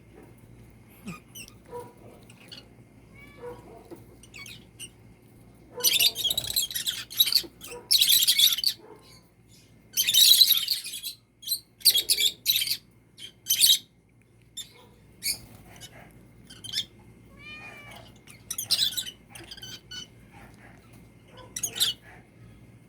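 Birds chirping and calling, mixed with a kitten's short meows, with several loud harsh bursts of squawking or chatter between about six and fourteen seconds in.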